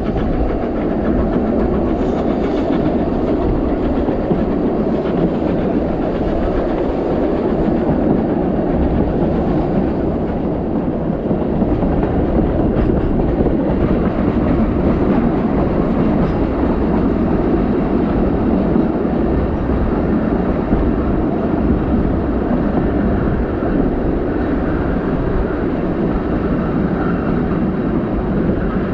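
Narrow-gauge steam train of the Isle of Man Steam Railway running along the line, heard from aboard a coach near the front: a steady rolling noise of wheels on track.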